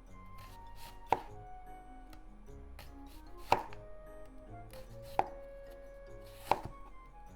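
Kitchen knife slicing an onion thinly and knocking on the cutting board four times, a second or two apart, over soft background music.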